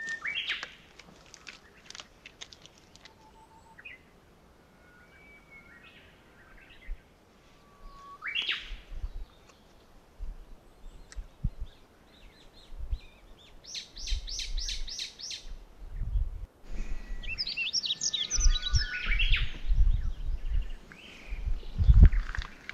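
Wild birds calling and singing: scattered short calls, a rising call about eight seconds in, a quick run of repeated notes near the middle, and a longer, more complex song phrase later on.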